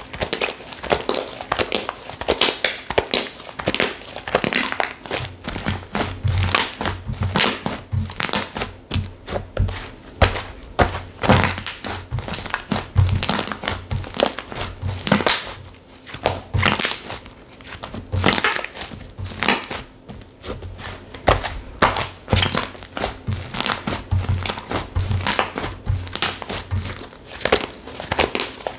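Textured slime being squished and pressed by hand: a dense run of crackling, popping clicks, with soft low thuds repeating from about six seconds in.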